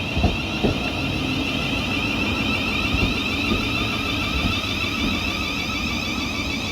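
Thameslink Class 700 electric multiple unit at the station with its electric traction and equipment running, giving a steady high whine over a rumble, with a few knocks in the first second.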